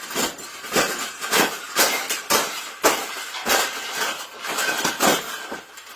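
Repeated hard knocks with clattering in between, about two a second and unevenly spaced, like something being struck over and over.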